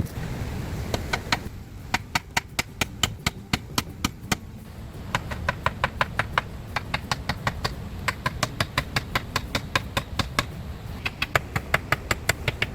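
Quick runs of sharp taps or knocks, about five a second, with short pauses between runs, over a steady low rumble.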